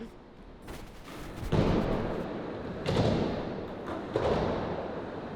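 Skateboard on concrete: three sudden thuds about a second and a half, three, and four seconds in, each followed by a fading rolling rumble.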